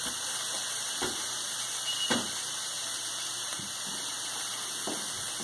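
Chopped onions and green peppers sizzling in a frying pan, a steady hiss, with three light knocks of the spatula against the pan, the loudest about two seconds in.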